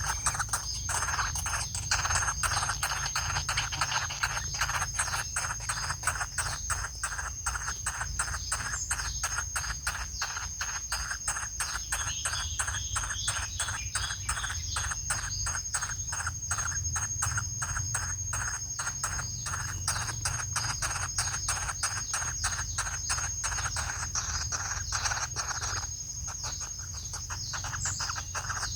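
Woodpeckers at their nest hole in rotten wood: a fast, even run of short repeated pulses, several a second, with a steady high-pitched whine behind it.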